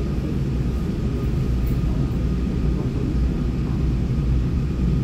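Steady low rumble inside an electric multiple-unit commuter train car as the trains move slowly apart at the platform, with a faint thin whine above it.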